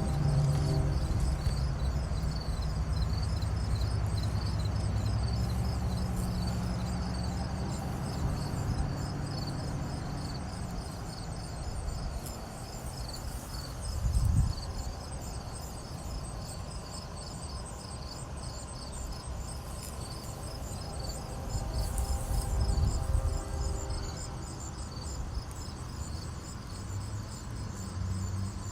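Insects chirping in a steady, fast pulsed trill throughout. A low hum sounds under it for roughly the first third, and low rumbles come about halfway through and again a few seconds later.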